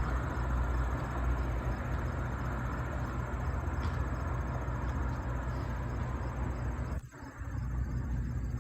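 Outdoor ambience: insects trilling steadily high up over a low, steady rumble. The rumble drops out briefly about seven seconds in.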